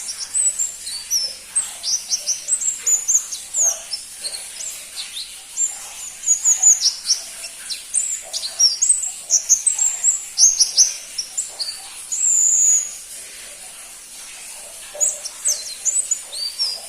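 Pentis pelangi, a small flowerpecker, singing a fast, high twitter of short chirps and quick downward-sweeping notes, with a brief pause about three-quarters of the way through.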